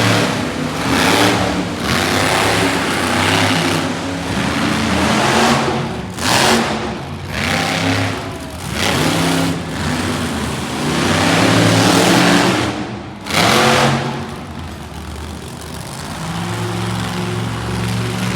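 Monster truck engine revving hard in repeated surges, its pitch climbing and falling. It is loudest about two-thirds of the way through, then settles into steadier, lower running near the end.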